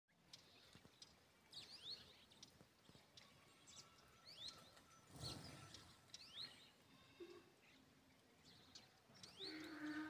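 Faint chirping of small birds: short, high, rising notes recurring about once a second. A brief rush of noise about five seconds in.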